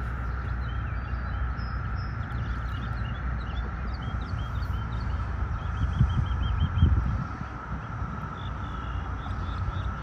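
Small birds chirping and singing, with a quick run of repeated notes about six seconds in, over a steady low rumble and a constant hum. A few dull bumps from the rod or phone being handled come around six to seven seconds in.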